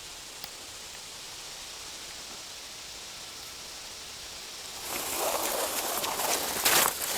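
Steady faint hiss of the forest background, then about five seconds in, footsteps start rustling and crunching through leaf litter on the forest floor.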